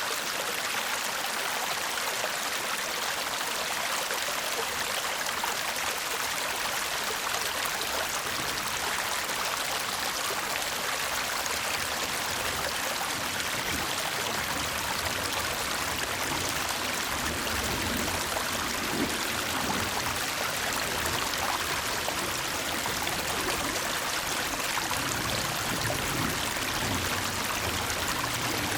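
Shallow brook babbling steadily over stones: a constant, even rush of running water.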